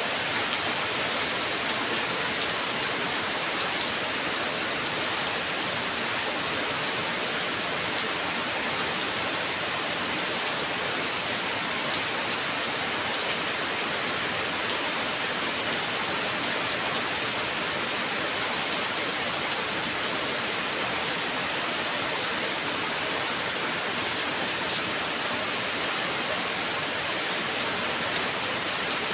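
Heavy rain falling steadily, an even hiss with dense patter of drops hitting a surface.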